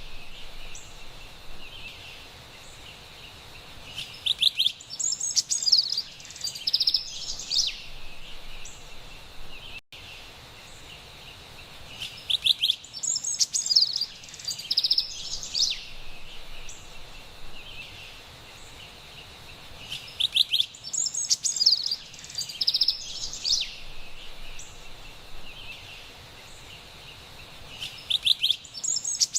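Carolina wren singing: bursts of rapid repeated whistled phrases, each lasting about three seconds and coming about every eight seconds, over a faint steady outdoor hiss.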